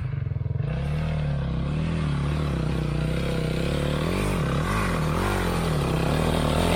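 Dirt bike engine running under steady throttle, then blipped up and down several times from about the middle, growing louder near the end as the bike comes closer.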